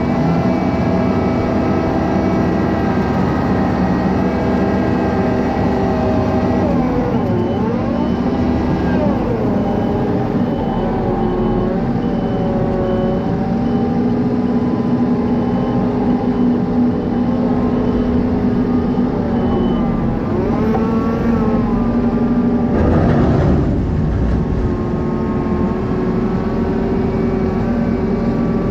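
Farm machinery engine running, its revs rising and falling. A steady series of high beeps sounds through the middle stretch, and a brief burst of noise comes near the end.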